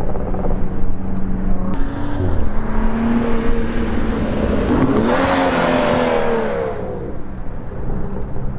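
BMW 435i's turbocharged N55 straight-six through an M Performance exhaust: running steadily at first, then after a sharp click about two seconds in the car comes by. The exhaust note climbs to its loudest about five seconds in, its pitch rising then falling, and fades as it moves away.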